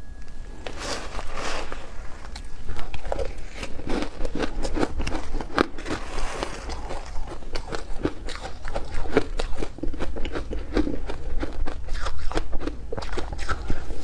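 Matcha ice being bitten and chewed close to the microphone: many sharp crunches and cracks in quick, irregular succession.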